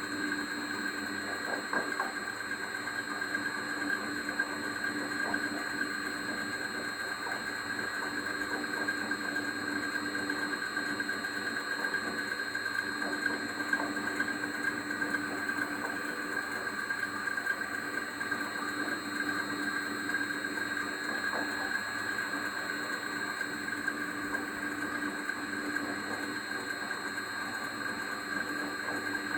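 Belt-driven pulley on a running engine making a steady whine with a squealing edge that holds one pitch, a noise that appeared after the drive belt was adjusted.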